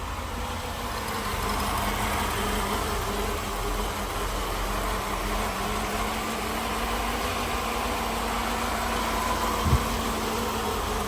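1990 Mercedes-Benz 560SEL's V8 idling steadily shortly after a cold start, with one brief thump near the end.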